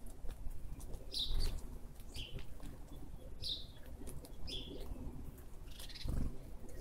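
A bird repeating short, high, slightly falling calls about once a second, with wind rumbling on the microphone and a stronger gust near the end.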